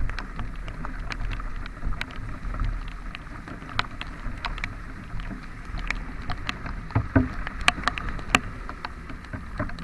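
Motorcycle riding on a rough road in the rain: a steady low engine rumble and rushing wind noise, with irregular sharp ticks and taps, a few louder knocks about seven to eight and a half seconds in.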